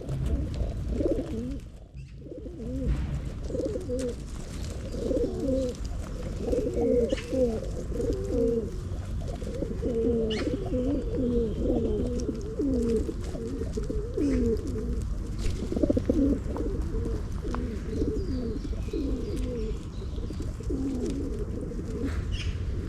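Pigeons cooing, one low coo after another throughout, over a steady low rumble.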